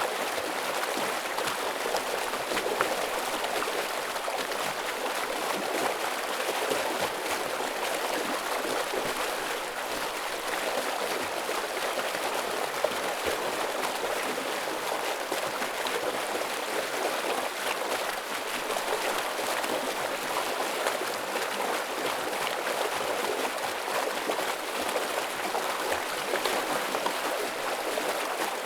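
Heavy flow of a forest stream, water rushing and splashing over rocks in a steady, unbroken wash.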